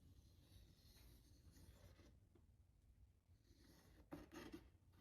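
Faint scratching of a line being marked on a welding hood, in short strokes with near silence between them.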